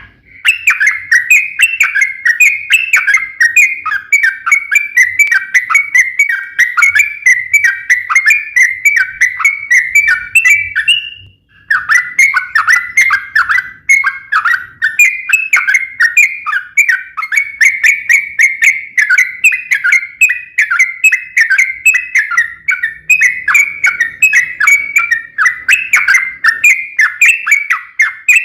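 Yellow-vented bulbul singing a long, fast run of short repeated chattering notes. The run breaks off briefly about eleven seconds in, then carries on.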